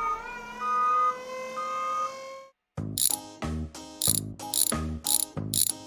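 A synthesized tone sound effect that swoops down and then holds steady, with two short beeps over it, cutting off about two and a half seconds in; then upbeat background music with a steady beat.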